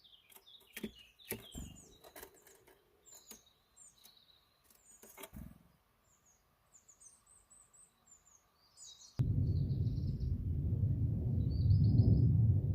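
Small birds chirping in short, high calls, with scattered sharp clicks in between. About nine seconds in, a loud low rumble starts suddenly and continues, with a few chirps still heard over it.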